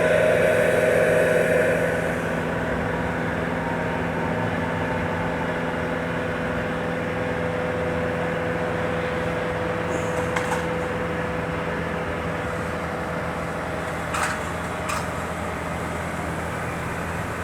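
Aerial lift running as its platform goes up: a steady engine and hydraulic hum with a whine. It drops in level about two seconds in, and the whine fades out about nine seconds in. A few light clicks come near the end.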